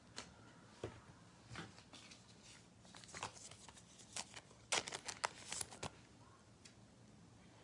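Trading cards being handled and sorted on a table: faint scattered slides and light taps, with a quick run of them about five seconds in.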